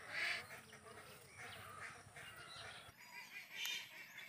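Faint honking bird calls, a few short calls spread through, with a single light click about three and a half seconds in.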